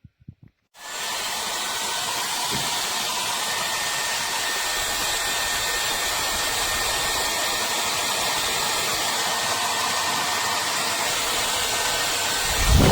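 AIUNAOM 2400 W foldable travel hair dryer switched on about a second in, blowing with a steady rushing hiss. It turns louder and deeper near the end.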